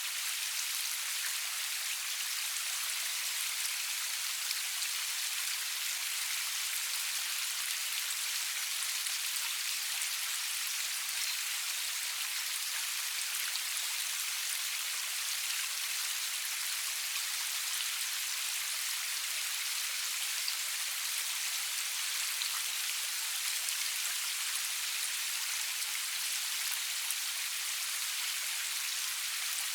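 Steady rainfall with fine drop patter, a constant hiss weighted to the high end and no thunder.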